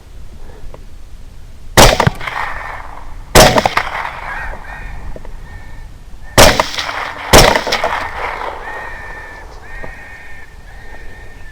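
Four suppressed rifle shots from a 6.5 Grendel carbine fitted with a SilencerCo Omega suppressor, in two pairs: the first two about a second and a half apart, the last two a second apart. Between and after the shots, hogs squeal in short, high, repeated cries.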